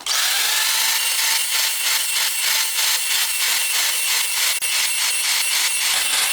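A hand tool scraping back and forth in quick, even strokes, about five a second, like rasping or sawing.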